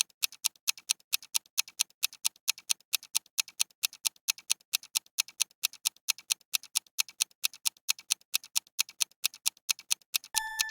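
Countdown-timer ticking sound effect, a fast even clock tick of about five ticks a second, ending with a short ringing ding near the end.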